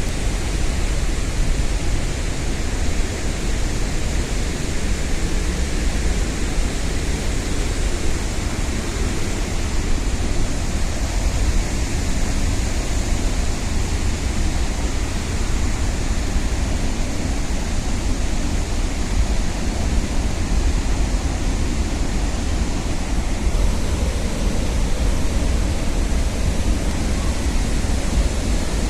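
Large waterfall's water pouring down, a loud steady rush of falling water heard from the base of the falls.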